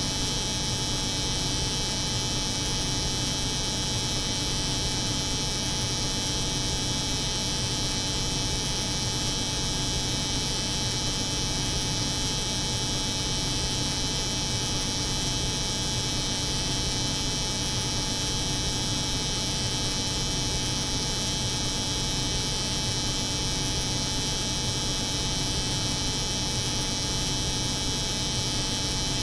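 An electric hair clipper buzzing, layered with the hum of a cold room's refrigeration unit, in one unchanging steady drone.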